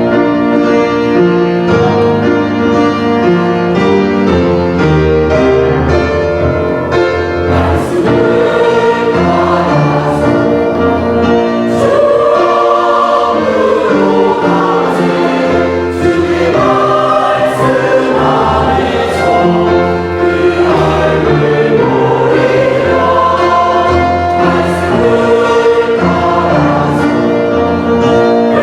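Church choir singing a sacred anthem with instrumental accompaniment.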